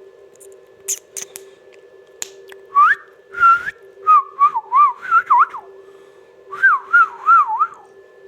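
A parrot whistling: a rising whistle about three seconds in, then runs of short wavering notes that swoop up and down, with a pause between two runs. A steady low hum and a few sharp clicks sit underneath.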